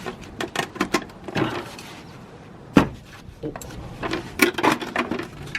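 Metal wrench clicking and knocking against the oil pan drain plug as it is worked loose, a scattering of short clicks with one sharp knock near the middle.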